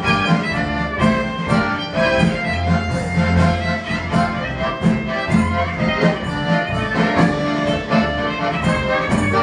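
Klezmer band playing an instrumental passage live: pitched melody lines over a bass that pulses on a steady beat.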